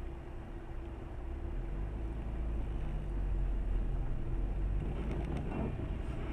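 A car driving along: a steady low engine and road rumble with a faint hum, growing a little louder over the first few seconds.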